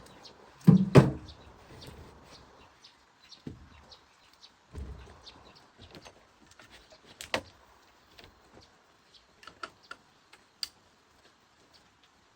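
Handling noise of hard objects: two heavy knocks close together about a second in, a duller thud about five seconds in, then scattered light clicks and taps.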